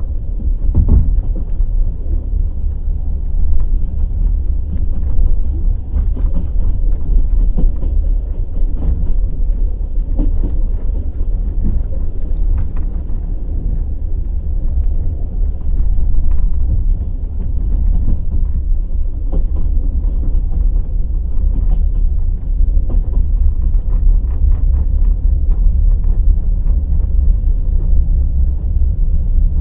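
Low, steady rumble of the Kovel–Kyiv night fast train No. 202, with scattered clanks and clicks through it.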